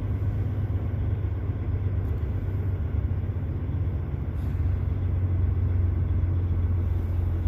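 Truck's diesel engine running at low speed as the rig is manoeuvred into a parking spot, a steady low drone.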